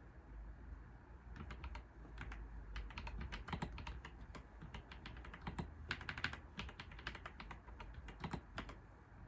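Computer keyboard typing in irregular bursts of keystrokes, starting about a second in and stopping shortly before the end, over a low steady background hum.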